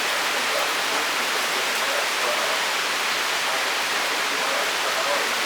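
Torrential thunderstorm rain pouring down in a steady, dense hiss that never lets up.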